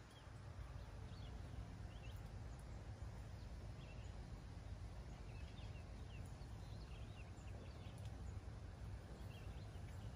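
Faint outdoor ambience: a steady low rumble with scattered faint, short bird chirps throughout.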